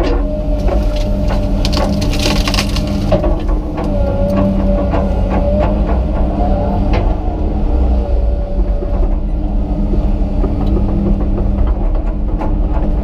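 Komatsu PC200 excavator's diesel engine and hydraulics working under load, with a steady whine, while tree limbs and wood crack and snap repeatedly. The cracking is densest from about one to three seconds in.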